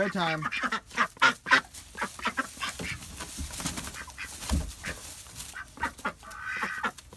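Domestic ducks quacking in a run of short calls, thick at first, thinning out in the middle, and picking up again near the end.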